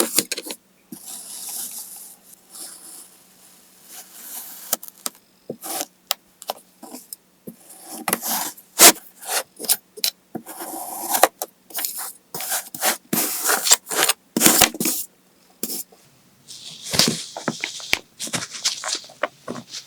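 Knife cutting through kinetic sand: repeated crisp scraping and crunching strokes with sharp clicks, coming in irregular bursts with short pauses.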